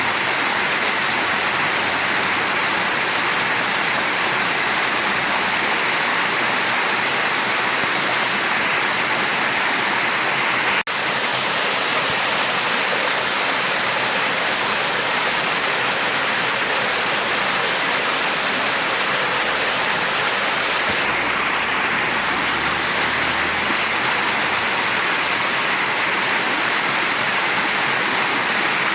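Mountain stream rushing steadily over rocks, with a brief dropout about eleven seconds in.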